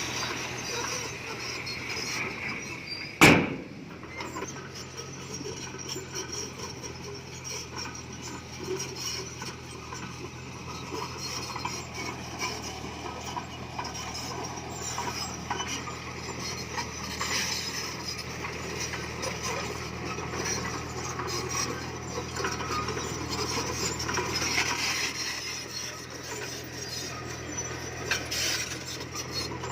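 Komatsu D20P bulldozer's diesel engine running steadily while pushed stone grinds and scrapes, with one sharp clank about three seconds in.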